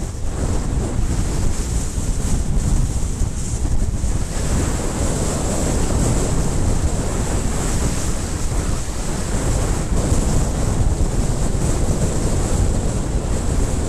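Wind buffeting a helmet camera's microphone while riding: a loud, steady rush of noise, heaviest in the low end.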